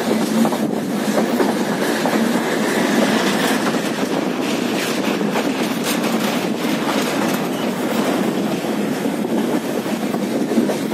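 Passenger train running along the track, heard from its own coach: a steady rumble of the wheels, with a run of faint clicks from the rails in the middle.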